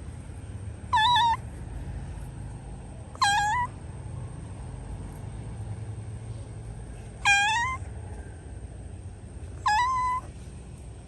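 Domestic cat meowing four times, each meow short and evenly pitched, a few seconds apart. These are the calls of a cat stuck in a hole. A steady low rumble runs underneath.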